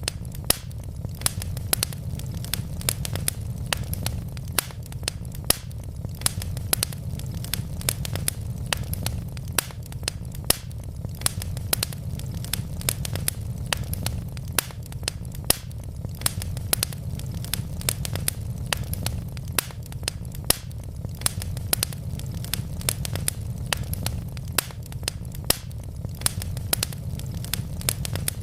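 Wood fire burning in a fireplace, with constant irregular crackles and pops from the logs over a low steady rumble of the flames.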